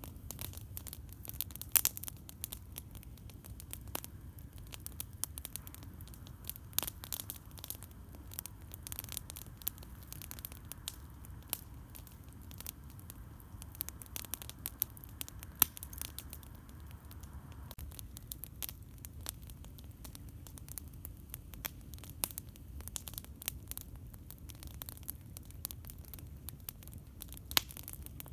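Campfire crackling: frequent irregular pops and snaps of burning wood over a low steady rumble, with a few louder pops about two seconds in, around the middle, and near the end.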